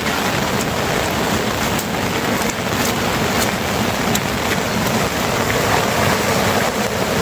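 Steady rain falling, with scattered sharp hits of individual drops close by.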